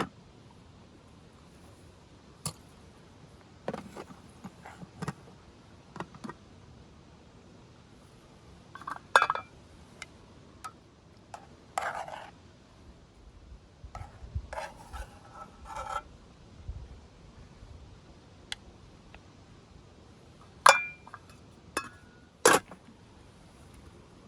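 Camp cookware and utensils clinking, knocking and scraping in scattered, irregular strokes, some with a short metallic ring, as a meal is handled and served.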